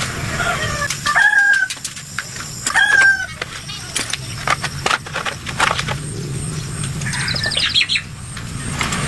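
A hen clucking twice in the first few seconds, among many sharp clicks and knocks, over a steady low hum.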